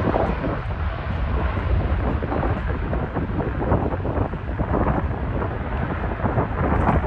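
Jet airliner engines rumbling while wind gusts on the microphone, a rough, steady roar with heavy buffeting low down.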